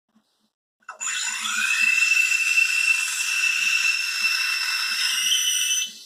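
Espresso machine's steam wand hissing, with a steady high whistle through the hiss. It starts about a second in, runs for about five seconds and cuts back sharply near the end.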